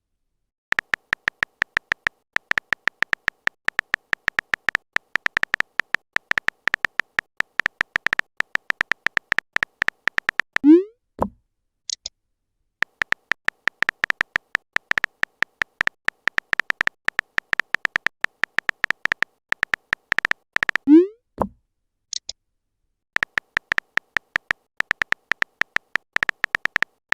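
Chat-app text-typing sound effect: rapid electronic clicks at one steady pitch, in long runs separated by short pauses. Twice a run ends with a short rising pop, the tone of a message being sent.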